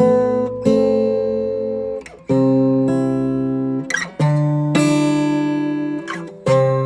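Acoustic guitar music: slow chords struck about every second and a half and left to ring.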